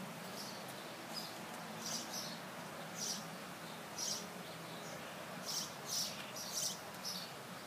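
Birds chirping: short, high chirps repeated irregularly about once a second over faint background noise.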